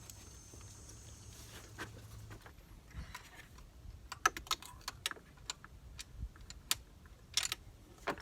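Irregular metallic clicks and clinks of hand tools and engine parts being handled. A faint low hum stops about two and a half seconds in.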